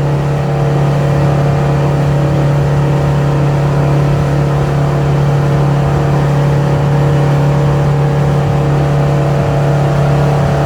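Cabin cruiser's engine running steadily under way, a constant loud drone with a strong low hum that holds one pitch throughout.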